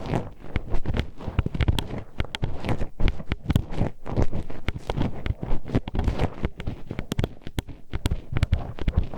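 Metal hairpin poked and scraped inside the ear of an ASMR microphone: a dense, irregular run of sharp clacks and scratches with low thumps, several a second.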